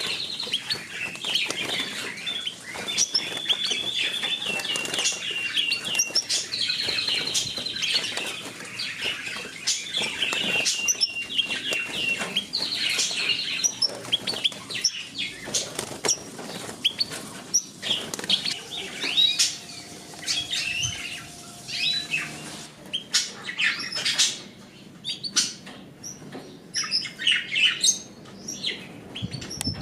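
Small pet birds chirping and singing short trilled phrases, with fluttering wings and sharp clicks of birds moving about. The trills are steadiest in the first half; after that come scattered chirps.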